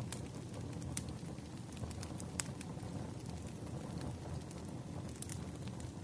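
Wood campfire burning: a low steady rumble of flames with scattered sharp crackles and pops, the loudest about one second in and about two and a half seconds in.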